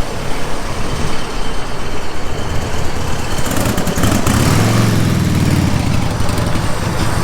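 A motor vehicle's engine passes by on the street, rising and then falling in pitch midway through, over steady street and wind noise.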